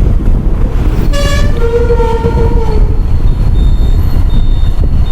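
Vehicle horn sounding twice in road traffic, a short toot about a second in followed by a longer, lower honk, over loud wind rumble on the microphone of a moving motorcycle.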